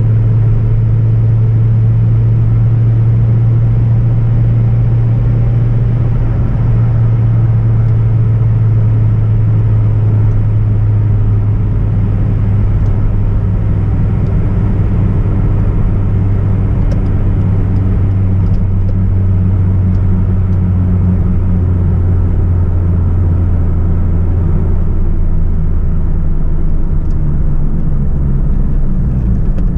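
Hyundai Coupe (Tiburon) 2.0-litre petrol four-cylinder engine droning at a steady cruise, with road and tyre noise. The engine note eases slightly lower about six seconds in and again near the end.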